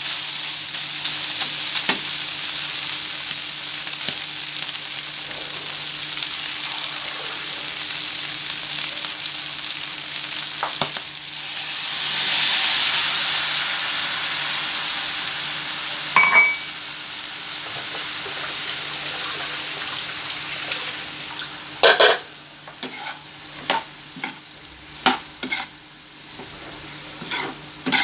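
Pork and liver strips sizzling in a non-stick frying pan as a spatula stirs them. About twelve seconds in the sizzle swells for a couple of seconds as water goes into the hot pan. Past the twenty-second mark the sizzle falls much quieter and the spatula clacks against the pan several times.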